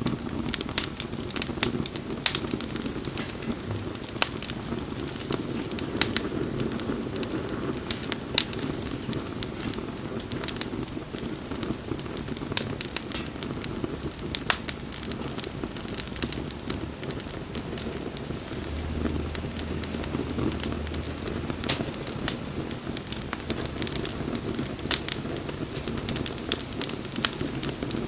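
Wood campfire burning, with frequent sharp crackles and pops over a steady low rush of flame.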